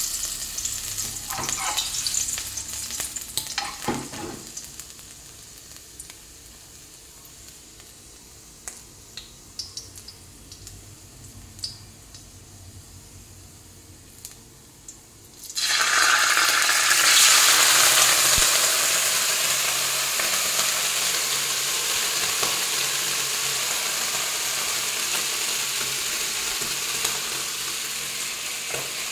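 Food frying in a hot wok. Chopped pieces hiss and crackle as they go in, then settle to a quieter sizzle with scattered small pops. About halfway through, a much louder, steady sizzling hiss sets in suddenly and slowly eases off.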